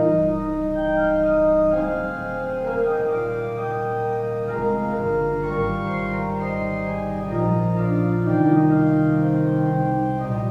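Organ playing slow, sustained chords, with held notes and a bass line that change every second or two.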